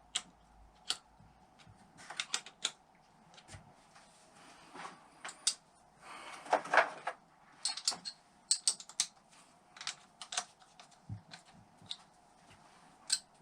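Irregular sharp clicks and light metallic taps of hand tools and bolts being handled while fitting cover bolts on a Honda XL600 engine, with a short scraping rattle about six seconds in.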